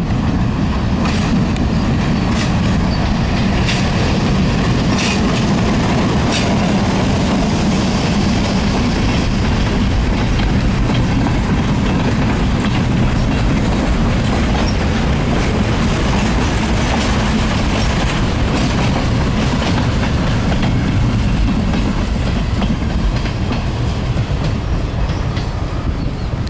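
ALCO RS-32 diesel locomotive and its train rolling along the rails in a steady, heavy rumble. Over the first several seconds the wheels click over rail joints about every second and a half, and the sound eases off slightly near the end.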